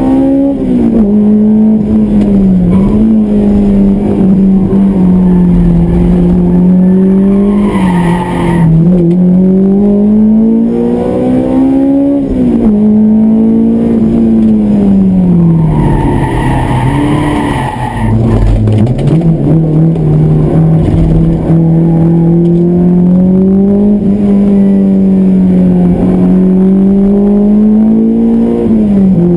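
Honda S2000's high-revving four-cylinder VTEC engine at full load around a track, heard from inside the cabin through its aftermarket intake and exhaust, the pitch rising and falling as it pulls and lifts between about 6,000 and 7,600 rpm. The tyres squeal briefly twice, about a third of the way in and again for a couple of seconds just past the middle.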